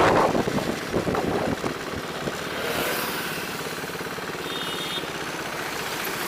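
Motorcycle engine running steadily at low revs, near idle. Gusty wind on the microphone dies away in the first second.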